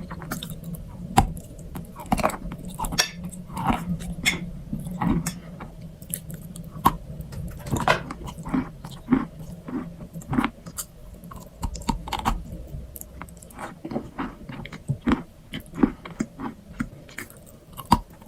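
A person chewing a strawberry crunch treat, with many irregular crisp crunches.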